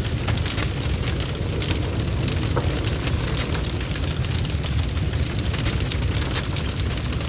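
Wood fire burning: a steady low rumble with frequent, irregular sharp crackles and pops.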